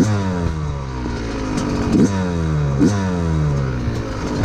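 A 2019 Yamaha YZ125's single-cylinder two-stroke engine revved in sharp throttle blips, about three times, the revs falling away slowly after each.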